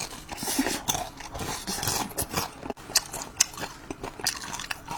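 Close-up chewing and crunching on crispy fried pork (guobaorou), a run of irregular crisp crunches.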